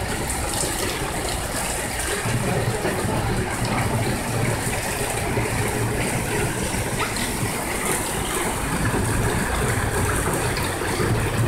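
Heavy rain falling steadily on pavement and the surroundings, an even rushing hiss with a low hum underneath.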